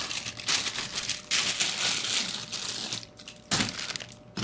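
Plastic cereal bag crinkling as it is handled and opened, a dense papery rustle that goes on for about three seconds, with a couple of short louder rustles near the end.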